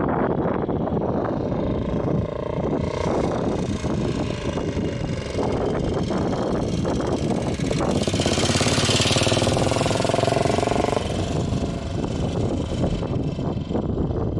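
1948 Manx Norton's single-cylinder engine running on the road, its note shifting in pitch and growing loudest about nine to ten seconds in before easing off.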